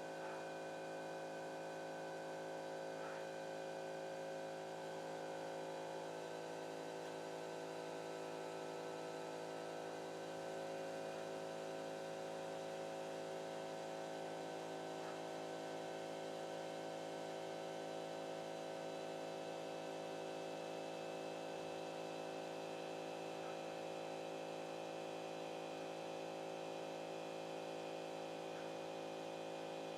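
CNC pen-plotting machine humming steadily, a constant electrical whine of its motors and drive, with a few faint ticks now and then.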